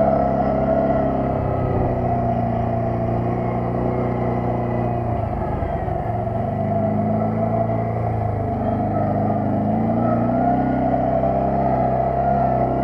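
ATV engine running while riding. Its pitch drops about five seconds in, then climbs again as it picks up speed.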